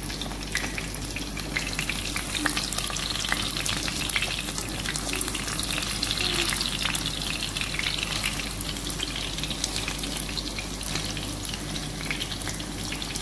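Breaded chicken patties shallow-frying in hot oil in a nonstick pan: a steady sizzle with many small crackling pops.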